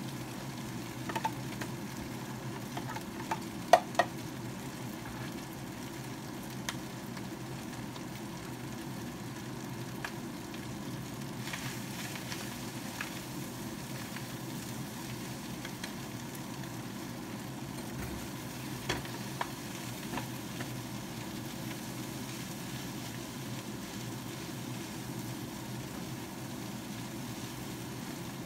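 Fried rice with diced vegetables and chopped meat sizzling in a wok while it is stirred with a spatula and spoon. The utensils knock against the pan a few times, loudest about four seconds in, over a steady low hum.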